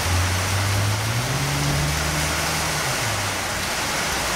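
Heavy storm rain falling steadily. A low engine-like hum sits under it for the first three seconds, rising slightly in pitch before it fades.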